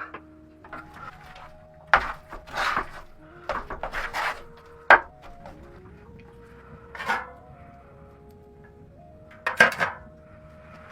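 Pots, dishes and utensils clattering and clinking in about six short bursts, over quiet background music with held notes.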